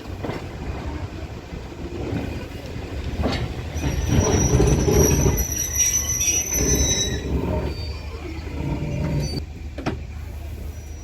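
Train running along the track with a steady low rumble and a few knocks. From about three and a half seconds in to about seven seconds, a thin high wheel squeal rings out over it at the loudest point.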